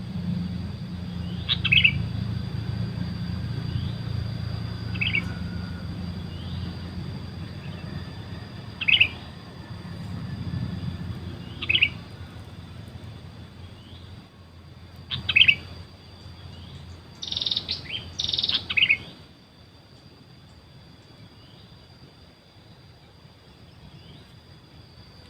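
Sooty-headed bulbul chirps: single short calls every few seconds, then a quick run of several calls near the end, over a steady high-pitched hum.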